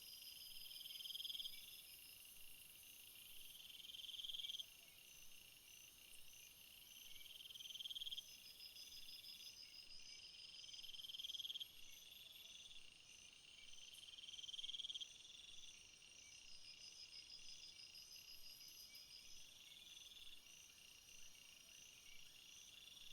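Faint chorus of calling insects: a high trill swells for about a second and a half, then cuts off, and this repeats about every three and a half seconds over a steady run of higher, evenly spaced chirps.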